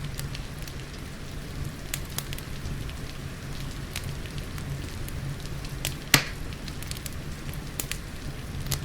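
Wood fire crackling, with scattered sharp pops and one loud pop about six seconds in, over the steady hiss of rain.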